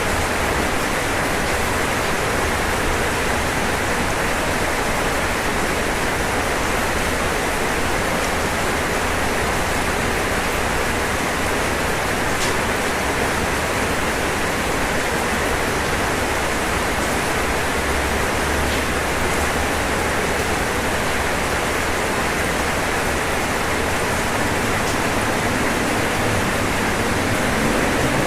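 Steady rain falling on a roof, a dense even hiss of drops with a few faint individual ticks.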